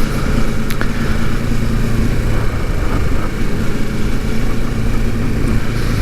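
Kawasaki motorcycle engine running at a steady cruise, its low hum holding one pitch, under a steady rush of wind and road noise.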